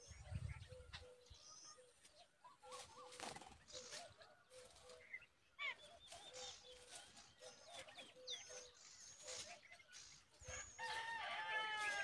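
Several birds calling: scattered short high chirps and a soft low note repeated steadily, then a louder, harsher call of several tones near the end.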